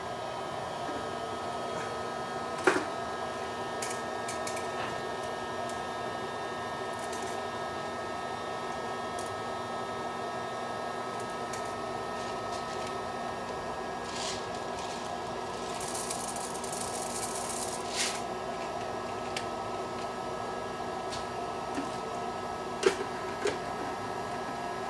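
Microwave oven running with a steady hum, heating bags of microwave popcorn. A few sharp clicks and knocks come over it, one about three seconds in and others later on.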